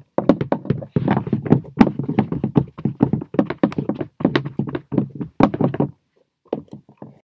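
A rapid run of light knocks and taps, several a second, going on for about six seconds, then breaking off, with a few more taps near the end.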